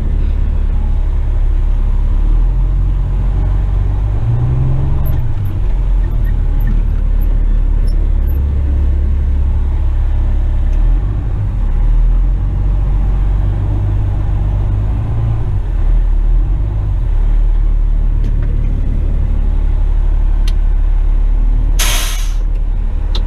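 Western Star tipper truck's diesel engine running under load, revving up and settling back twice, then a short sharp hiss of air from the air brakes near the end.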